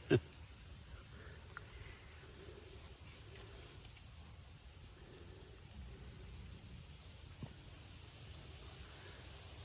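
Steady, high-pitched insect chorus, a constant trill in an open garden, with a faint click or two.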